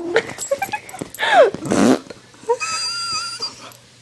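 Mouth-made fart noises, lip raspberries, with a sputter at the start and a short blast just before the middle. A dog whines in reply: a short falling whine about a second in, then a longer, steady high whine in the second half.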